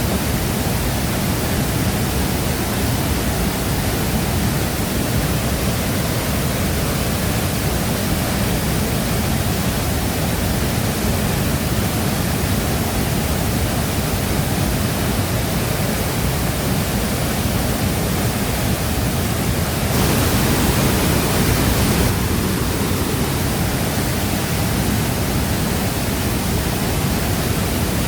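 Waterfall: a steady, dense rush of falling water, briefly a little louder and brighter about twenty seconds in.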